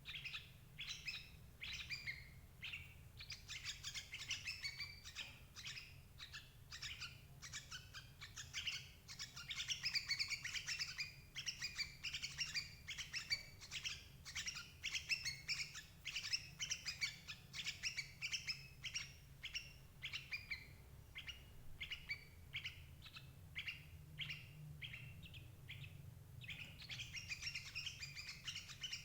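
Yellow-vented bulbul (cerucuk) calls: fast, continuous chirping notes repeated many times a second, played as a lure call for trapping adult bulbuls. A low steady hum lies under it.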